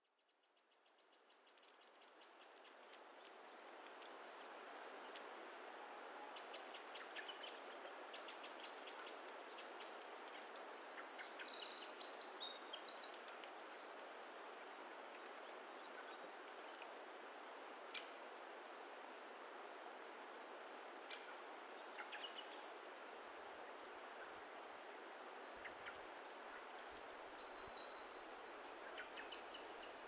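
Small wild birds chirping and singing in quick runs of high-pitched notes over a steady outdoor hiss that fades in over the first few seconds. The song is busiest and loudest about halfway through and again near the end.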